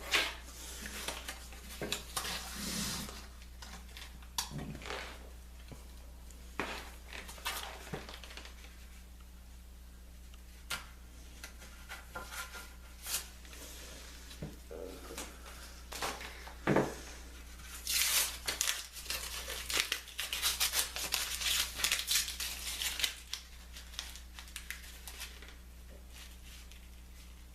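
Scattered knocks and clicks of workshop handling, with a few seconds of dense crinkling, tearing noise about eighteen seconds in.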